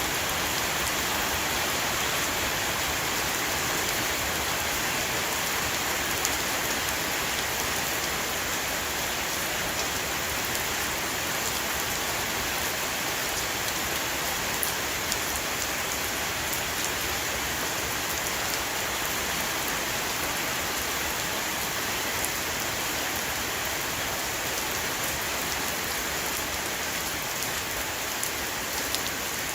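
Heavy rain shower falling on a roof, a steady even patter with occasional sharper drop hits.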